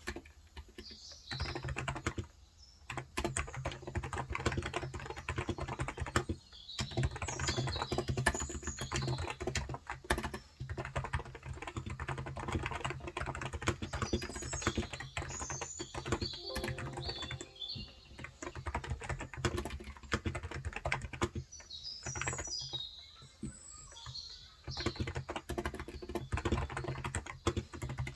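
Typing in quick bursts with short pauses on a Cox Endeavor tenkeyless keyboard with 35 g electrostatic capacitive (non-contact, Topre-style) switches. Birds chirp now and then in the background.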